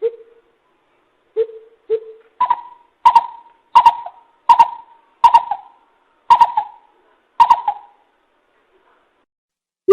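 Coucal calling a series of deep hoots: a few low notes, then about eight higher hoots roughly 0.7 s apart, each trailing an echo. The series stops about eight seconds in, and a new one starts right at the end.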